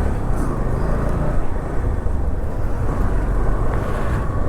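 Steady low rumble of a motorcycle being ridden: its engine running with road noise, in traffic.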